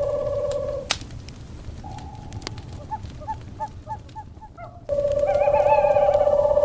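Owl calls over a crackling wood fire: a long steady trill that cuts off about a second in, then a run of short hoots about three a second, then the trill starting again with wavering higher notes near the end.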